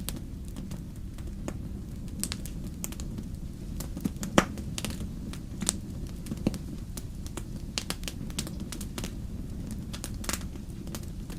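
Wood fire burning in a fireplace: irregular crackles and snaps over a steady low rumble of the flames, with one sharp pop about four seconds in.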